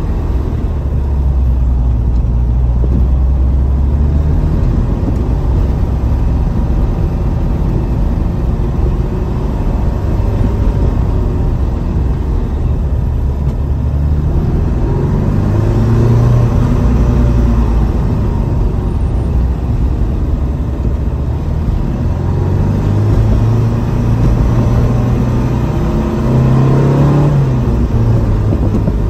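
1975 Porsche 914's air-cooled flat-four engine heard from inside the cabin on the move, its note rising as the car accelerates, most clearly twice in the second half, over steady road noise.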